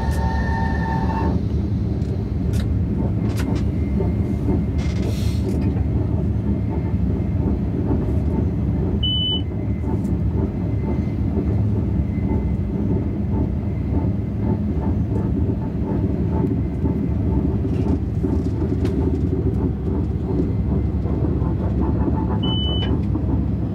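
High-speed train running at speed: a steady, unbroken rumble. A high whine stops about a second in, and a short high beep sounds twice, about nine seconds in and again near the end.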